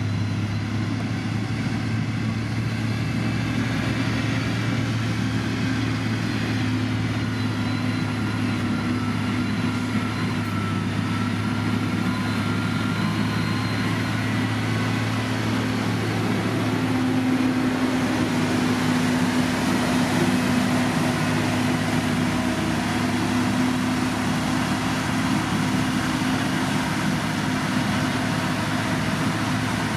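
Diesel engine of heavy road-construction machinery running steadily, a little louder for a few seconds past the middle.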